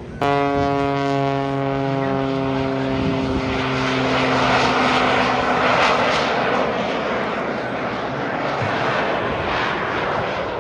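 Propeller-driven aerobatic aircraft flying past: a steady engine drone that starts suddenly and grows into a louder rushing noise, loudest about five seconds in, then eases off.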